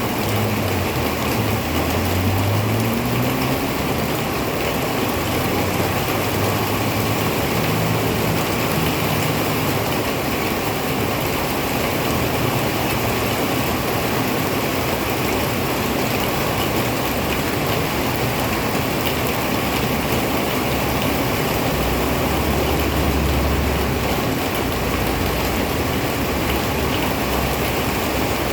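Heavy rain falling steadily. A vehicle engine runs low beneath it, rising briefly in pitch in the first few seconds, and there is a short low rumble a little over twenty seconds in.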